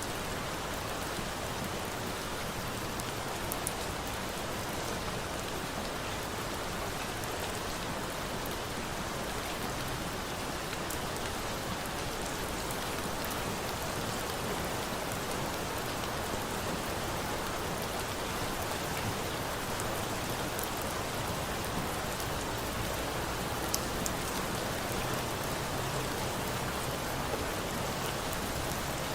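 Steady rain falling, an even hiss of rainfall with a few faint ticks scattered through it.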